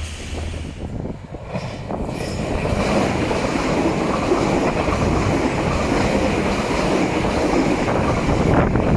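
South Western Railway passenger train passing close by, a steady rush of wheel-on-rail and carriage noise that builds about two seconds in.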